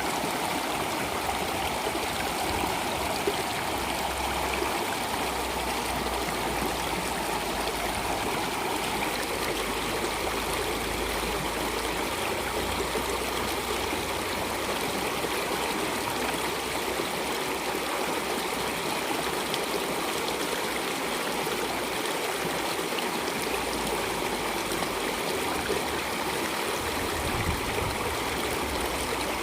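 Water flowing steadily in a stream, an even rushing and gurgling with no break.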